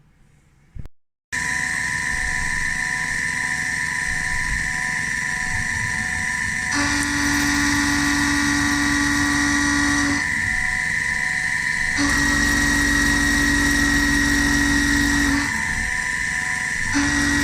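CNC milling machine running, starting abruptly about a second in: a steady high whine with a constant mechanical drone, and a lower hum that cuts in and out three times for a few seconds each.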